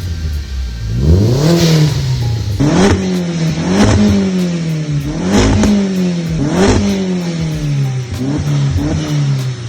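Audi TT engine revving through a stainless steel exhaust in a series of quick throttle blips, each a sharp rise in pitch followed by a slower fall, about one a second.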